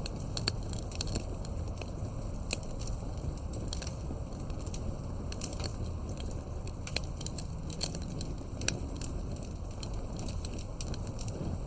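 Wood fire crackling, with frequent sharp irregular pops and snaps over a low steady rumble of the flames.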